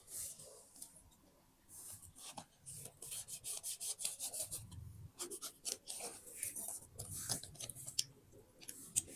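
Paper being handled and rubbed: soft rustling and crinkling with a quick run of small ticks, starting about two seconds in.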